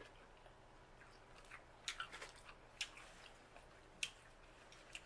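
Faint chewing and wet mouth sounds of a person eating, with a few short sharp clicks about two, three and four seconds in.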